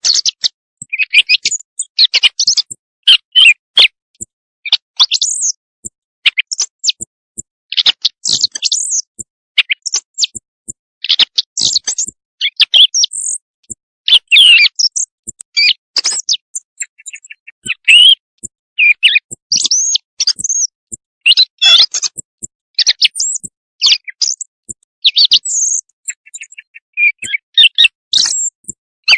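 Quail calls played as a night-time hunting lure: high, rapid chirps and short trills in quick, irregular runs, separated by brief silent gaps.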